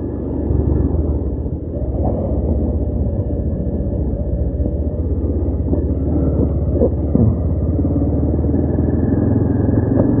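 Motorcycle engine running while riding, mixed with road and wind noise; it grows louder over the first second or two, then holds steady.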